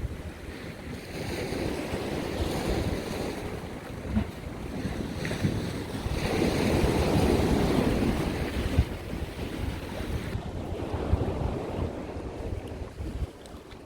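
Sea surging and washing against coastal rocks, swelling to its loudest about six to eight seconds in, with wind buffeting the microphone.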